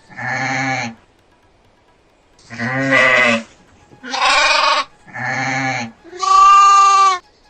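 Goats bleating: five calls, each just under a second long, the last one higher-pitched and clearer than the others.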